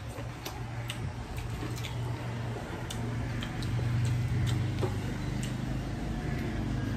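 People chewing food: small wet mouth clicks at about two a second, over a steady low hum.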